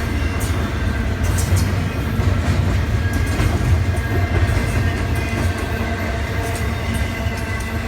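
Intermodal freight train rolling past: a steady low rumble with scattered sharp clicks of wheels over the rail, easing off slightly towards the end.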